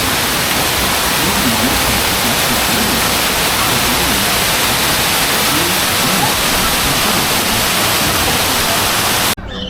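Heavy rain pouring down as a loud, steady rush of falling water that cuts off suddenly near the end.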